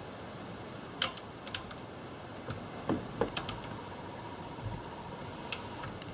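Scattered light clicks and taps of hand tools and parts being handled, about a dozen at irregular intervals. A faint steady whine runs through the second half.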